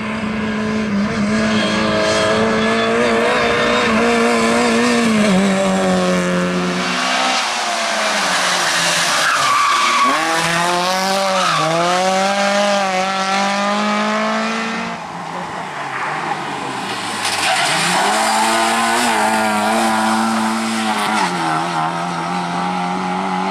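Rally cars driven flat out: engines held at high revs, dropping and climbing back several times as the driver lifts and shifts, with tyres squealing and skidding.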